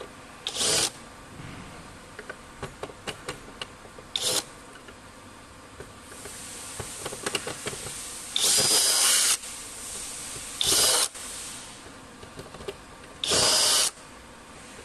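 Cordless power drill/screwdriver running in five short bursts of under a second each, with small clicks and knocks of handling in between.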